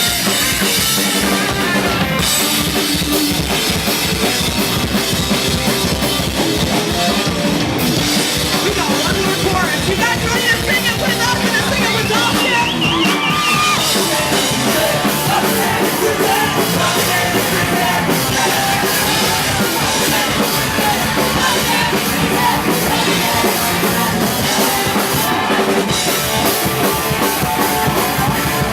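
Rock band playing loud punk-style rock, with a pounding drum kit and guitars, and a wavering lead line about ten seconds in.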